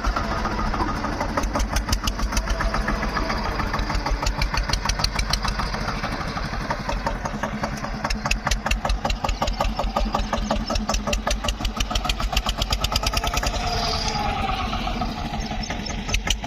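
Tractor diesel engine running with a fast, regular chugging beat whose pace rises and falls a little.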